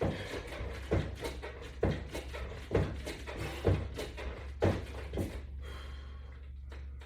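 A knock roughly once a second, in time with resistance-band exercise repetitions on a bar attachment system, over a low steady hum.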